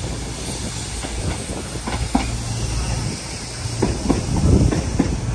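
Railway train at a platform: a low steady hum under a constant hiss, with knocks and clanks that grow louder about four seconds in.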